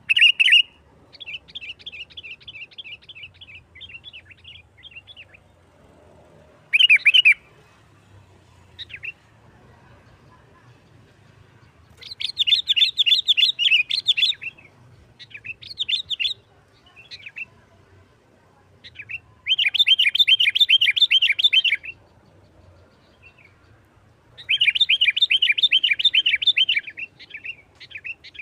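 Sooty-headed bulbul (kutilang) singing its fast 'nggaruda' fighting song: rapid chattering trills repeated in bursts of about two seconds, with shorter phrases and single notes between them.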